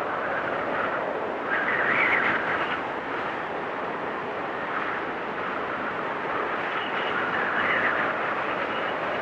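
Storm wind blowing steadily, swelling in gusts about two seconds in and again near the end, with a faint high whistle coming in near the end.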